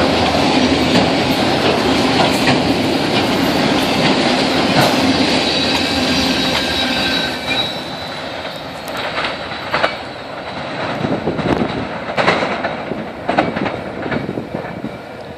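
Freight cars of a CN manifest train rolling past on jointed rail, with wheels clattering in a steady clickety-clack and a brief high wheel squeal. About halfway through the sound drops, leaving scattered clacks of wheels over rail joints.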